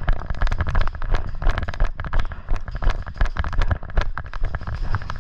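Airsoft guns firing: a rapid, irregular string of sharp pops and clicks over a low rumble.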